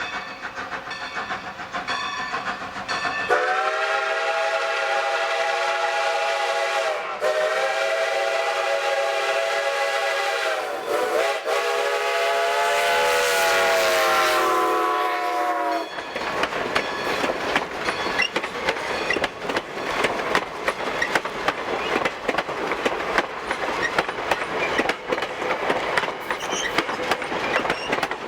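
Steam locomotive's chime whistle blowing several long blasts with brief breaks between them, then the train passing close by, its wheels clicking steadily over the rail joints.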